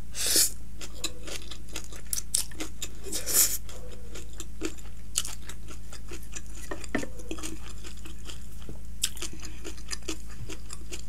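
Close-miked chewing of a mouthful of chowmein noodles, with many small wet mouth clicks. There is a louder slurp just after the start and another about three seconds in, and a fork scrapes lightly on the wooden serving board.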